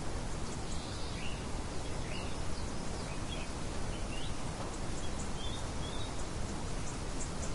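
Birds chirping in short, scattered calls over a steady background hiss of outdoor ambience.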